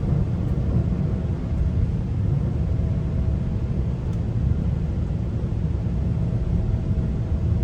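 Steady low rumble of a GO train coach running along the track, heard from inside the coach, with a faint thin whine that comes and goes.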